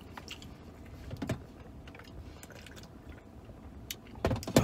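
A man chewing a mouthful of rice-and-steak burrito bowl close to the microphone, with small wet mouth clicks and a slightly louder burst about a second in. A few sharper clicks come near the end.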